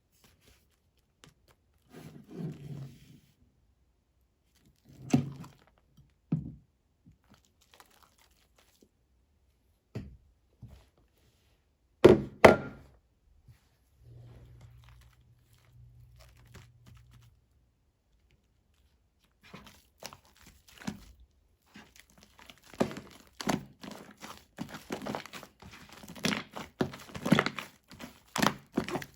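Clear slime with shaving foam being handled and mixed by hand: a few separate soft knocks in the first half, one louder double knock about twelve seconds in, then from about twenty seconds a dense run of quick clicks and crackles as the slime is squished and stretched.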